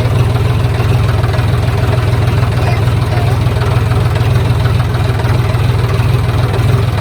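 John Deere 5039D tractor's three-cylinder diesel engine running at a steady, even speed.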